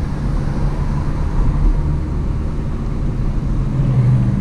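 Hyundai Azera's V6 engine, its rear mufflers removed, running steadily under light load as the car drives, heard from inside the cabin over road noise. The engine note swells briefly near the end.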